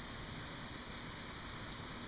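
Steady hurricane wind hiss, with an uneven low rumble of gusts buffeting the microphone.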